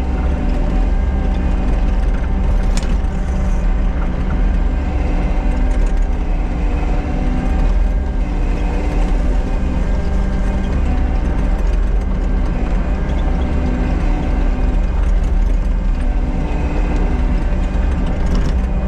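Diesel earthmoving machine working steadily under load, its engine note holding even, with a clanking, ratcheting rattle from the machine's moving parts as it back-drags crushed stone.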